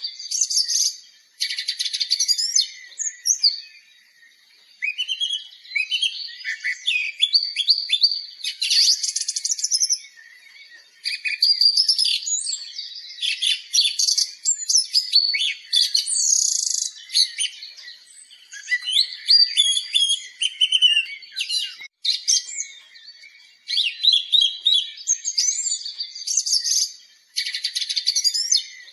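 Songbirds singing: a busy run of high chirps, trills and whistled phrases, broken by a few short lulls.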